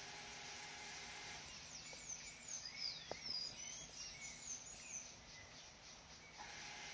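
A bird singing a quick series of high chirps and short whistled slides, from about a second and a half in until about five seconds in.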